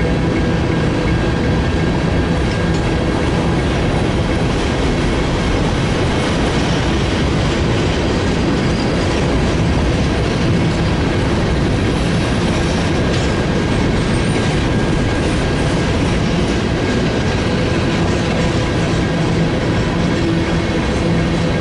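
Cars of a freight grain train rolling past at a steady, loud level, wheels clacking over the rail joints, with faint steady tones of wheel squeal.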